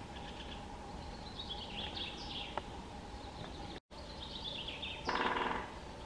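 A songbird singing a fast trill that falls in pitch, twice, over faint forest ambience. A loud, harsh bird call comes near the end.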